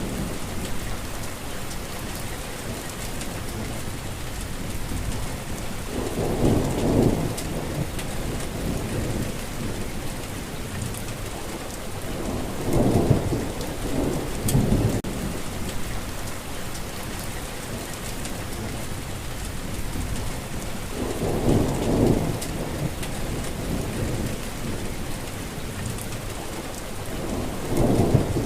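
Steady heavy rain falling, with sharp drops ticking through it, and four low rolls of thunder rumbling up and fading, the loudest moments of the sound.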